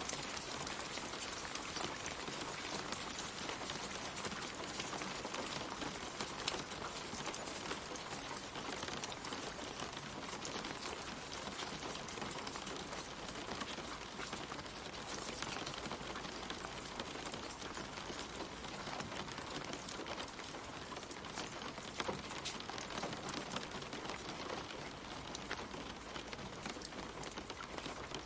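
Steady gentle rain falling on leaves and the ground, with many small drop ticks over an even hiss.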